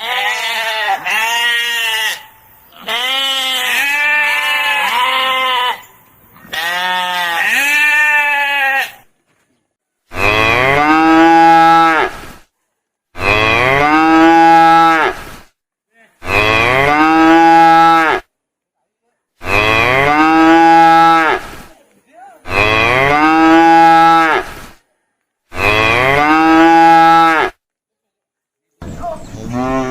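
Cattle mooing. The first nine seconds hold three groups of short calls that rise and fall in pitch, followed by six long, identical moos evenly spaced about three seconds apart.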